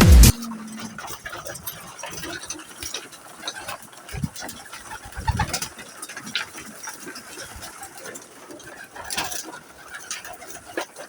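Pigeons cooing, with short low calls about four and five seconds in, among scattered small clicks and rustles. Electronic music cuts off right at the start.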